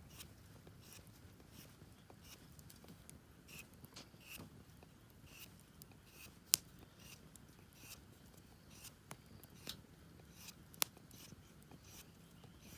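Wood campfire crackling: irregular small crackles with two louder sharp pops, one about halfway through and one near the end.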